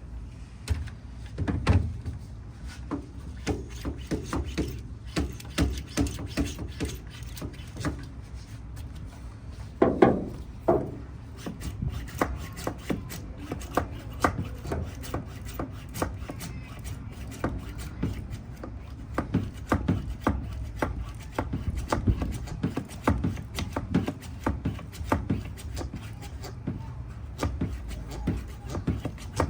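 Hand pump of a pressure brake bleeder being pumped up to pressure: a long run of short clicks and rubbing strokes.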